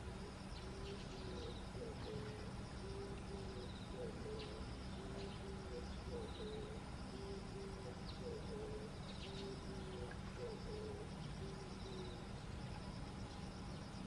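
A bird cooing in a long series of short, low notes, with faint high chirps and trills from other birds or insects over a steady low background rumble.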